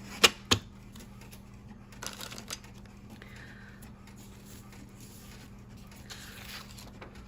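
Two sharp taps just after the start, then faint, scattered rustling of paper being handled on a desk, over a steady low hum.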